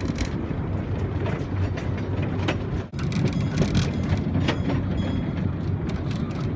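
Small tour train riding along its track: a steady low rumble with irregular rattling clicks and knocks.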